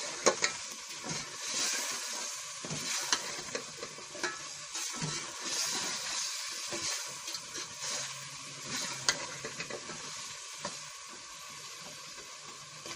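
Potato chunks frying and sizzling in oily masala in a metal pot while a metal spoon stirs them, with a short knock or scrape of the spoon against the pot every few seconds. The sizzle eases a little near the end.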